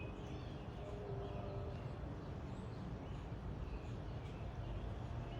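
Faint short bird chirps scattered through a steady low outdoor rumble.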